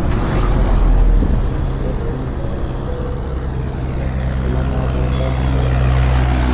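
Motorcycle engine running steadily close by, with a low, even hum throughout.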